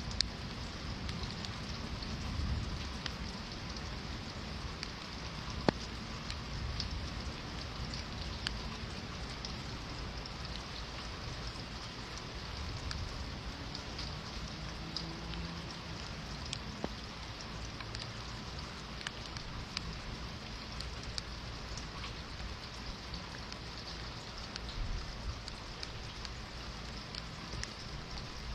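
Steady rain falling, with fine scattered drop ticks and a low rumble underneath; one sharper click about six seconds in.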